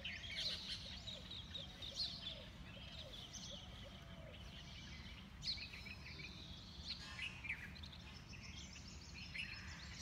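Birds chirping and calling, with many short high chirps and, over the first few seconds, a lower call repeated a couple of times a second, over a steady low background hum.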